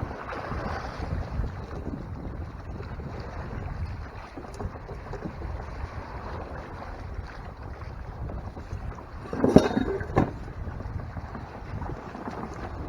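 Wind buffeting the microphone and water rushing along the hull of a Hobie Tandem Island sailing kayak under sail, in wind and swell. Two louder slaps come close together about ten seconds in.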